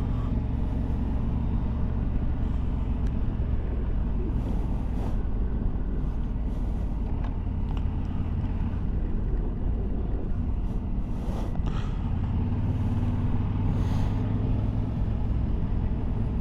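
Motorcycle engine running at a steady cruise, with wind rushing over the microphone and a few brief gusts.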